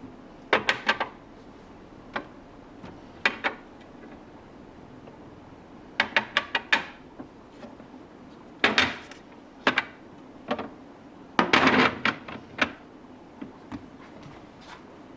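Plastic storage containers and food items being handled and set down in a refrigerator: irregular clusters of light knocks and clatters, the loudest flurry near the end.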